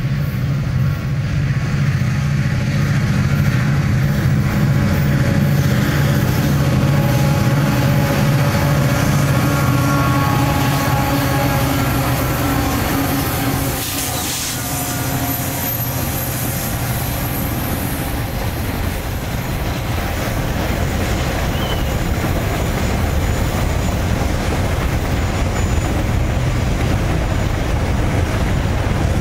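Diesel freight locomotives passing close by, their engines running with a deep, steady drone. About halfway through, the engine note drops back under a broader rumble of the train on the track.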